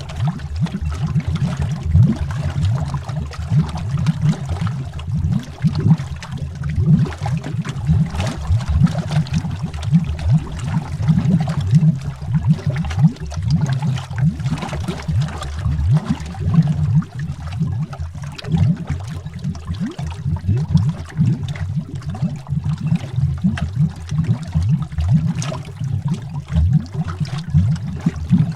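Underwater bubbling: a steady stream of low, rapid bubble pops and gurgles, continuous throughout.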